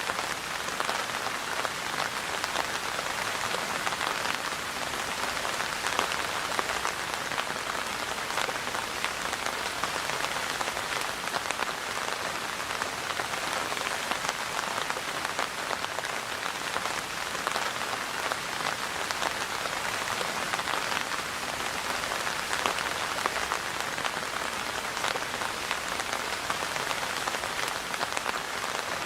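Steady rain falling, a dense even patter of many drops striking a surface, with no change in intensity.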